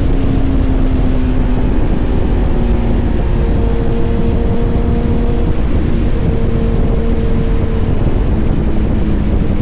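Motorcycle engine running steadily at cruising speed, with heavy wind rush on the microphone; the engine pitch sags slowly over the first few seconds and then holds.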